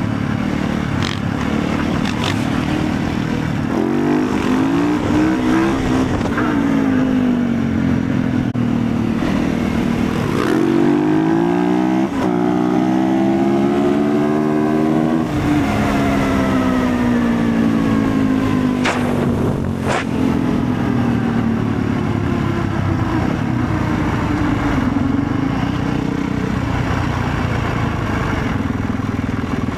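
Motorcycle engines running while riding, the pitch rising and falling as the throttle opens and closes. Two sharp clicks sound about two-thirds of the way through.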